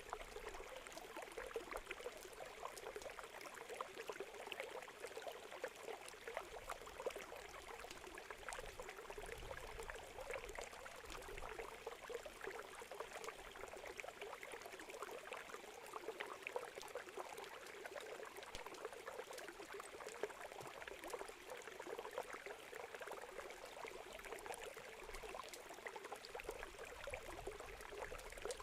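Wood fire crackling, with frequent small pops and ticks, over the steady rushing of river water.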